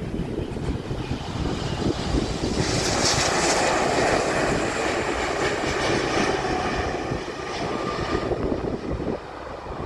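Boeing 777-200ER with GE90 jet engines flying past on landing approach: a steady jet roar swells about two and a half seconds in and fades near the end. Wind buffets the microphone throughout as a gusty low rumble.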